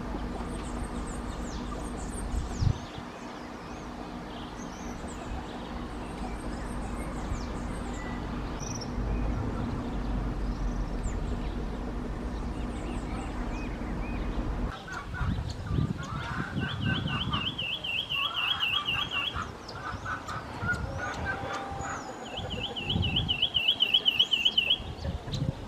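Lemon-chested greenlet singing two fast, trilled series of repeated notes, each about three seconds long, in the second half, among other birds' calls. Before that, a steady low hum runs under faint, high bird calls.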